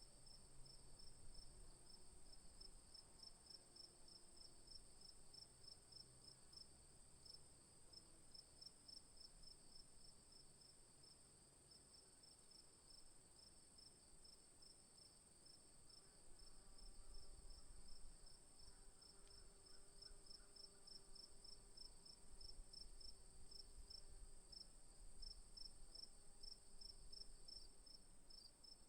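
Faint insects chirring: one steady, very high buzz and a second, fast pulsing trill, typical of crickets.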